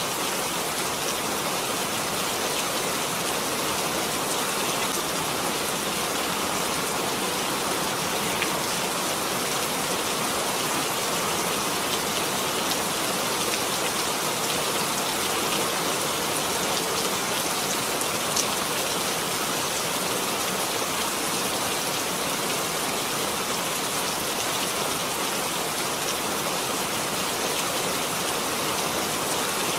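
Steady rain falling, an even hiss with occasional individual drops standing out.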